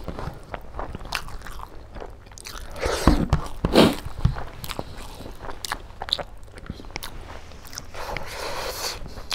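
Close-miked eating sounds: a person chewing mouthfuls of pork curry and rice, with wet mouth clicks and smacks and the soft squish and scrape of fingers mixing rice on the plate.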